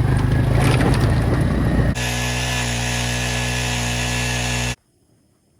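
Small petrol-type engine of a propane ice auger. For about two seconds it runs rough and noisy as it cuts, then it switches abruptly to a steady, even hum. The hum cuts off suddenly about a second before the end.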